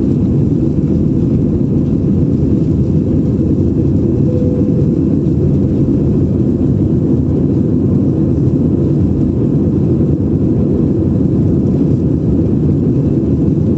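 Airliner's steady, loud low rumble of engines and rushing air, unchanging throughout.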